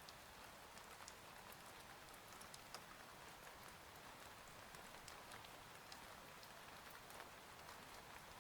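Faint steady rain, an even hiss with single drops ticking here and there.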